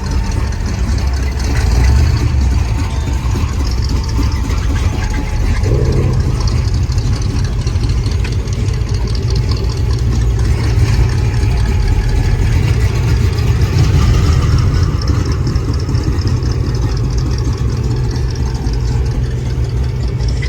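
Car engines idling and running with a steady low rumble, a little heavier from about six seconds in.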